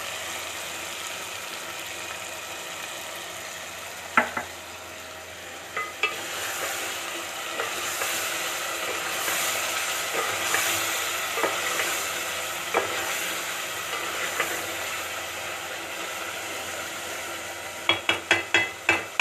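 Chicken karahi sizzling in an aluminium pot as it is stirred with a spoon, just after yogurt has gone in, with a steady hiss that is strongest in the middle. A few single knocks of the spoon against the pot, and a quick run of knocks near the end.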